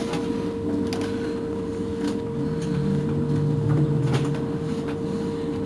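Irizar ie tram electric bus with a steady electrical hum and a low motor whine that rises in pitch about two seconds in, holds, then fades near the four-second mark. Scattered clicks and rattles can be heard throughout.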